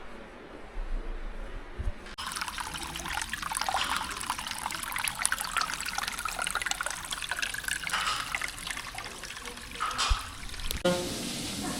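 Water running and splashing, a dense crackling patter of spray and drips that starts abruptly about two seconds in and cuts off near the end.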